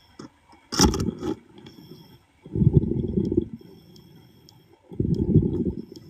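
A scuba diver's exhaled bubbles rumbling underwater in bursts about every two seconds, with a sharp click about a second in.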